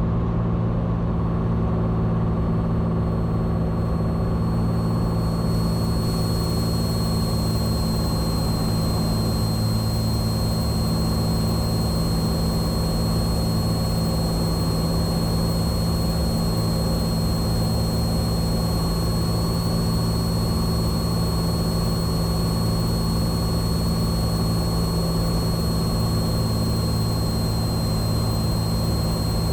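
Steady drone of a Cessna 182T's six-cylinder Lycoming IO-540 engine and propeller inside the cabin, at reduced power on the approach descent, with a thin steady high whine running above it.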